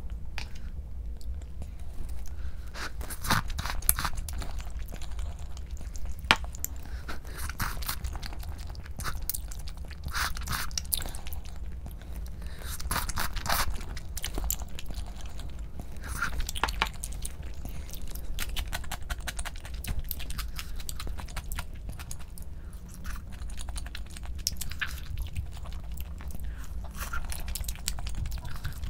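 A person chewing and biting food, with irregular short clicks and bites throughout, over a steady low hum.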